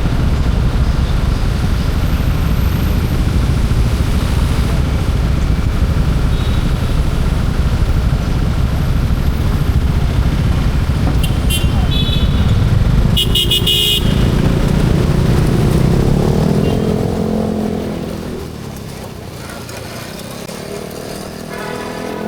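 Motorcycle riding on the road, engine and wind making a steady loud rumble. About 13 seconds in a vehicle horn honks briefly. The engine note then rises and falls and the noise drops off markedly as the bike slows.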